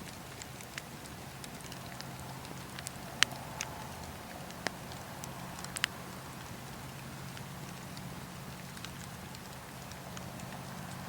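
Campfire burning, with scattered sharp crackles and pops from the burning wood, the loudest about three seconds in, over a steady low hum.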